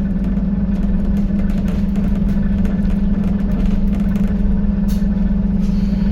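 Scania N280UD double-decker bus's five-cylinder diesel engine running at a steady, even pitch, a constant low drone with faint light rattles over it, heard from on board.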